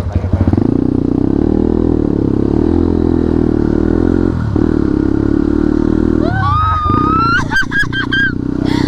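Motorcycle engine with a modified aftermarket exhaust idling steadily just after being started, dipping briefly about four and a half seconds in. High, wavering pitched sounds rise over it in the last few seconds.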